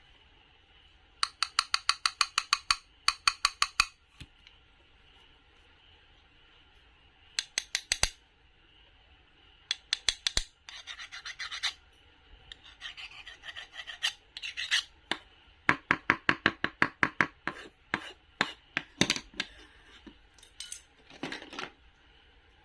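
Knife cutting crisp fruit or vegetables in quick runs of rasping strokes, several runs in a row with short pauses between them.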